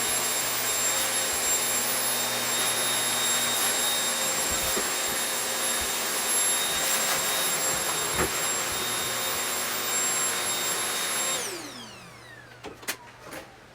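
Vacuum cleaner running steadily with a high whine. Near the end it is switched off and the motor winds down in falling pitch, followed by a few light knocks.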